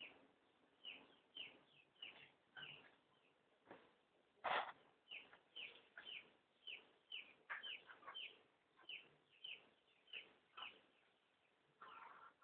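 Faint bird chirping: short, repeated chirps that fall in pitch, about two a second, with one louder sharp sound about four and a half seconds in.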